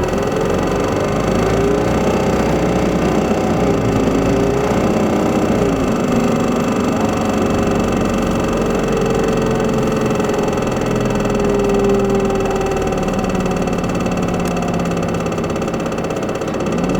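Isuzu Erga city bus's diesel engine running while the bus is under way, heard from inside the cabin, the engine note slowly rising and falling.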